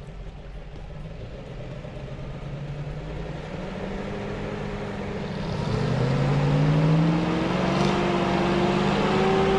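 GAZ-66 truck's V8 petrol engine working hard in deep mud. It starts low and gets steadily louder, then from about halfway revs up, rising in pitch and holding high near the end.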